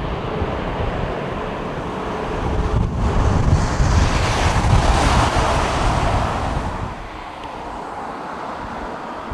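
Jet airliner engine noise swelling about halfway through and fading away near the end, with wind buffeting the microphone in low gusts.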